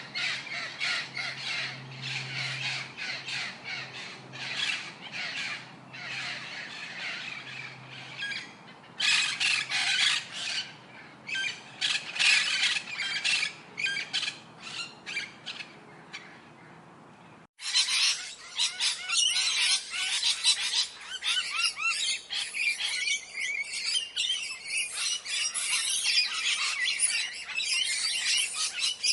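Parrots squawking and chattering, many harsh calls overlapping. About seventeen seconds in the sound cuts off abruptly and a denser chorus of calls takes over.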